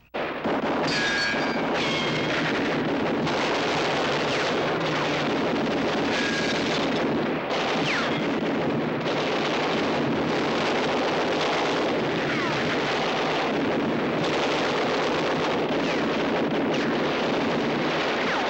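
Heavy, continuous gunfire from a film shootout: dense, overlapping shots with no let-up, with a few falling whistles cutting through, and a brief dip about seven seconds in.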